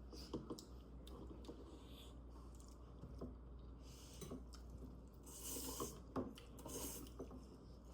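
Faint eating sounds: scattered small clicks and brief soft rustles, with some chewing.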